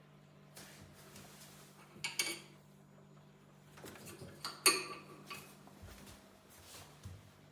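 Hard objects being handled and set down, knocking lightly, with two louder ringing clinks: one about two seconds in and one about halfway through.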